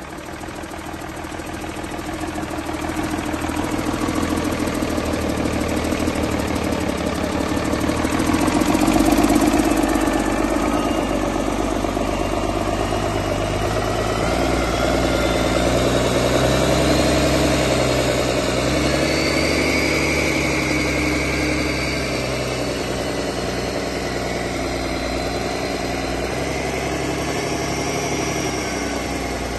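2002 Cummins ISB 230 hp inline-six turbodiesel engine running steadily. It swells in loudness over the first few seconds, and a faint high whine slowly drifts in pitch above the engine sound.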